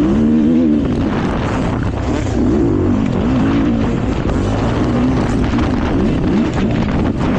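Dirt bike engine revving up and down through the throttle as the bike is ridden on a woods trail, with wind buffeting the microphone.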